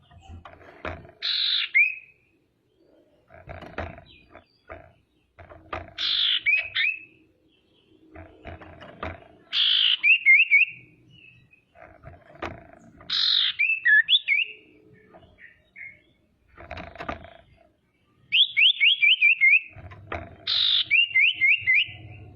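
Female common iora (sirtu, cipoh) calling in repeated phrases every few seconds, each a harsh scratchy note followed by a quick run of short down-slurred chirps. Softer scratchy noises come between the phrases.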